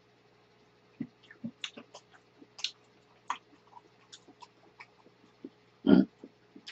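Close-miked chewing: faint, irregular mouth clicks and smacks, with one short loud thump about six seconds in.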